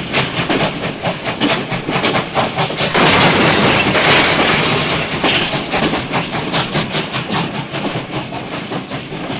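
A rapid, even mechanical clatter of about seven clicks a second, with a louder hissing rush from about three to five seconds in.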